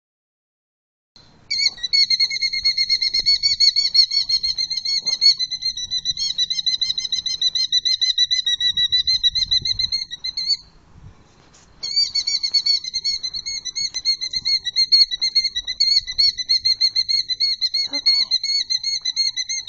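Killdeer giving a long, rapid, trilling alarm call of quickly repeated high notes as it defends its nest and eggs. The call is loud, breaks off for about a second near the middle, then starts again.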